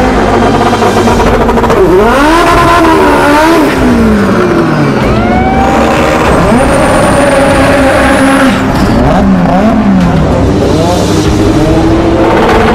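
Race car engines revving at a drag strip. The pitch swoops up and falls back again and again, with several engines overlapping, and a thin high whistle rises for a couple of seconds in the middle.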